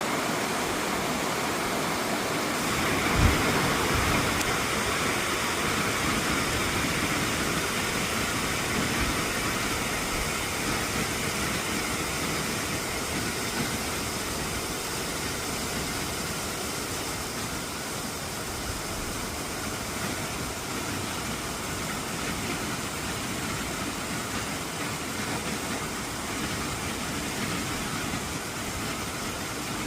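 Steady rain, an even hiss with no let-up, and a brief low thump about three seconds in.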